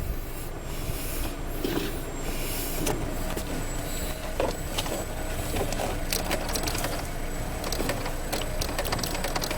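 Scattered metallic clicks and taps of hands and tools working under the hood, over a steady low mechanical hum.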